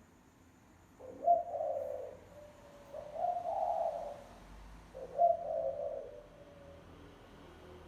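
Spotted dove cooing, the call used to lure wild doves: three coo phrases about two seconds apart, then a pause.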